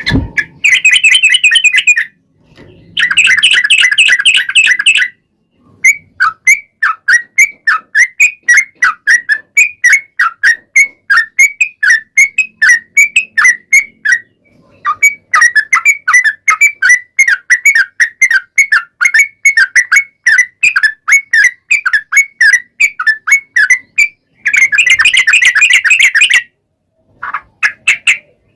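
Yellow-vented bulbul (trucukan) singing. Dense bubbling chatter phrases alternate with long runs of quick repeated chirps at about five a second. This is the long-trill 'ropel' song used as a lure to make a caged bulbul answer.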